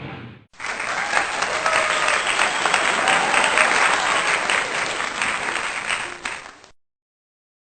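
Applause, dense clapping with some voices mixed in, starting just after the music ends and cutting off abruptly near the end.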